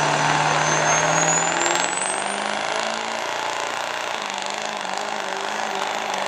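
Turbocharged diesel pickup engine under throttle, its pitch stepping up about two seconds in as a high turbo whistle climbs steeply and then holds: the turbo spooling up and building boost.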